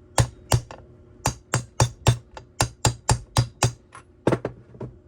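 Hammer tapping a crankshaft seal into the crankcase of a Stihl TS 400 cut-off saw to seat it flush: about fifteen sharp taps in quick runs of two to four.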